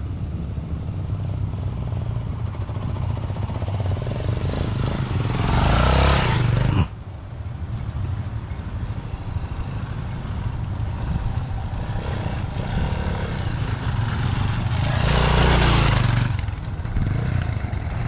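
Vehicle engine running while driving off-road, with two louder surges of rushing noise: the first about five seconds in, cutting off suddenly, the second near the end.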